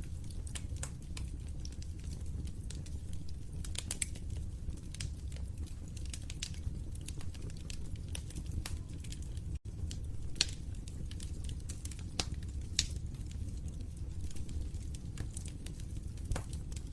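Fire crackling in a fireplace: a steady low rumble with irregular sharp pops and snaps. The sound cuts out for an instant about halfway through.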